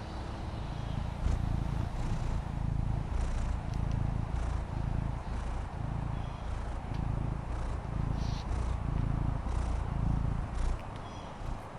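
Maine Coon cat purring close to the microphone, the purr swelling and fading in a slow rhythm of about once a second as she breathes, and stopping near the end.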